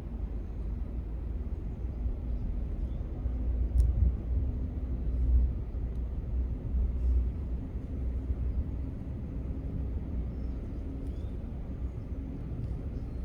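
Outdoor ambience: a steady low rumble with a faint hum, swelling briefly about four and five seconds in, with a few faint high ticks.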